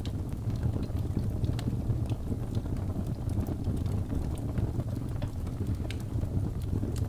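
Wood fire burning in a fireplace: a steady low rumble of the flames with sharp crackles and pops scattered irregularly throughout.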